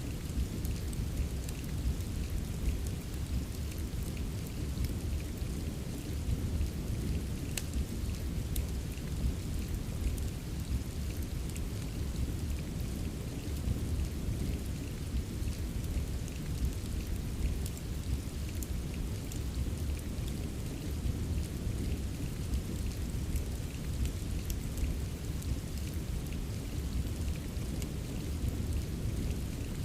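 Steady rain with a deep constant rumble underneath and scattered small crackles of a wood fire.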